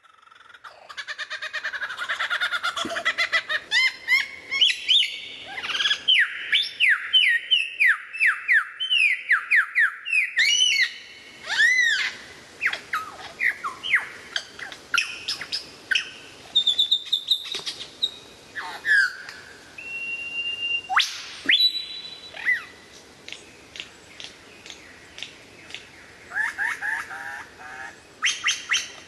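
Songbirds singing: fast runs of chirps and sweeping whistles, densest in the first third, then sparser calls with a few held whistled notes and one sharp rising whistle about two-thirds through.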